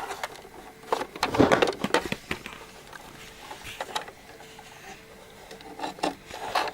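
Clicks, knocks and clatter of hard plastic toy parts being handled as a Playmobil ambulance is opened, busiest about a second in and then a few single clicks.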